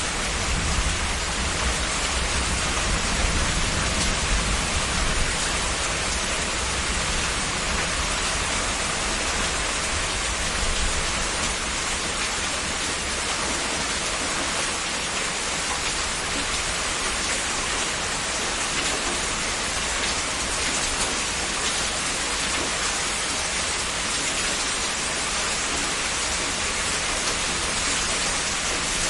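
Heavy rain falling steadily, a dense even hiss. A low rumble underneath is strongest in the first few seconds.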